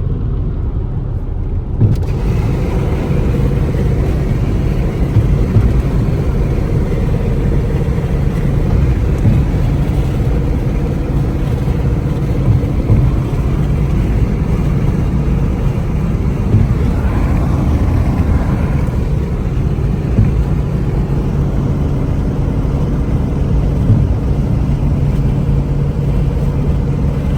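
Chrysler 300's Hemi V8 cruising steadily at highway speed, its engine drone mixed with road and wind noise.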